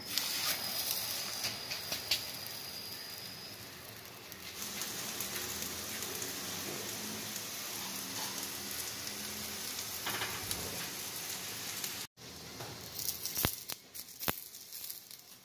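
Aloo paratha frying in ghee on a hot iron tawa: a steady, even sizzle. Near the end come a few sharp clicks of a steel spatula pressing the paratha against the tawa.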